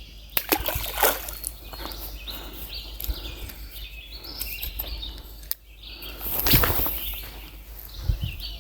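River water sloshing and splashing, louder about a second in and again near six and a half seconds, with birds chirping in the background.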